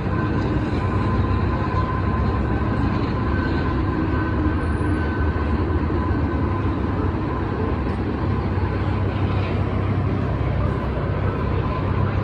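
CSX freight train rolling past: a steady rumble with a thin, steady high whine over it.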